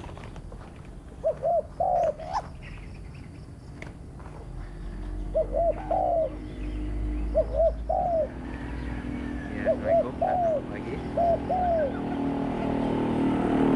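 Spotted dove cooing: short phrases of a few notes, repeated about every two seconds. A steady background hum builds from about eight seconds in.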